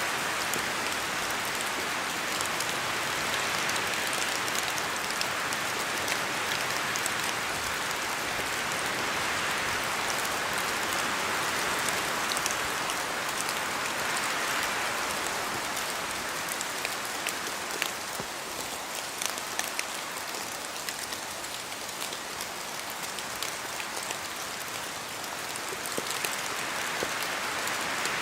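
Steady rain falling in a spruce forest, with fine drop ticks from water dripping off the trees. The wash of sound swells and eases with the wind, quieter for a stretch past the middle and rising again near the end.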